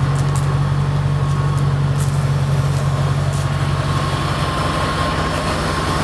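Mercedes SL55 AMG's supercharged V8 idling steadily, a low rumbling drone with a thin steady high tone above it. The supercharger runs on a fixed, clutchless pulley, which the owner gives as the reason for its rumble.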